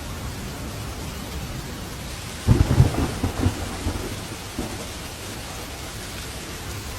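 Steady rain falling, with a thunderclap about two and a half seconds in that breaks into several rolling rumbles and dies away within about two seconds.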